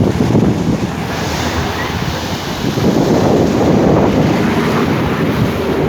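Big sea waves breaking and surging on the shore at high tide, with strong wind buffeting the microphone.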